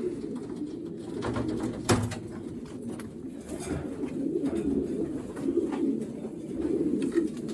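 Racing pigeons cooing continuously in a loft, many birds at once. A few brief sharp knocks or flaps are heard over them, the loudest about two seconds in.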